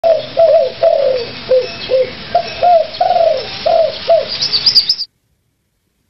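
A bird giving a quick run of short, low, rising-and-falling hooting coos, about ten in five seconds, with a few high chirps near the end. The sound cuts off abruptly about five seconds in.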